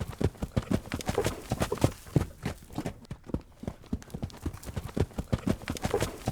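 Horse's hooves beating quickly and repeatedly on hard ground, many sharp strikes a second in uneven groups, as at a trot or run.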